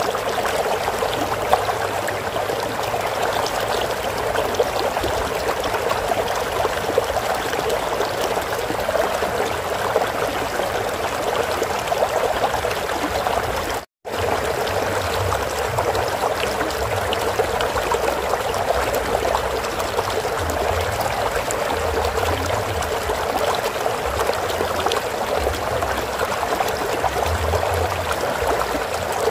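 Water of a flowing stream rushing and trickling steadily. It cuts out completely for an instant about halfway through.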